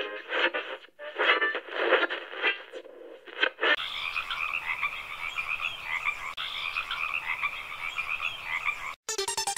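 Frogs croaking in a dense chorus of pulsing calls. About four seconds in, the sound changes abruptly to a higher, steadier chirping chorus, and music cuts in just before the end.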